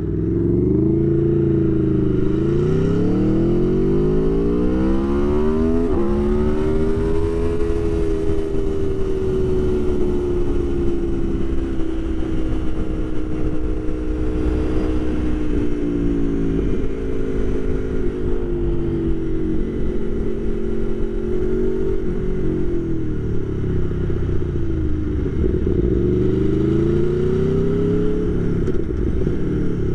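Aprilia Tuono V4 1100 Factory's V4 engine, heard through a mic inside the rider's helmet with wind noise, revving up through a gear change over the first several seconds, then holding a steady cruise. Its pitch falls as the bike slows about two-thirds of the way through, then rises again near the end.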